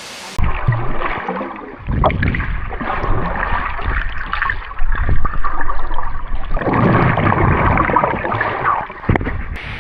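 Water splashing and churning close by at a waterfall pool, loud and uneven and muffled, with the high end cut off, and a couple of sharp knocks.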